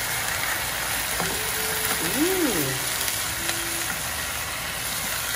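Sliced beef with onion and carrot sizzling steadily in a non-stick frying pan over a gas flame, stirred and turned with a wooden spatula.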